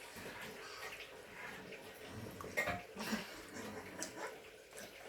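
Close-up sounds of someone eating: chewing and mouth noises, with scattered small clicks.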